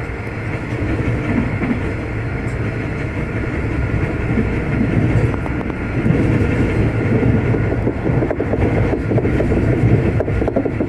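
V/Line locomotive-hauled passenger train running along the line: a steady low rumble of wheels on rails, louder from about six seconds in, with a quick run of clicks near the end.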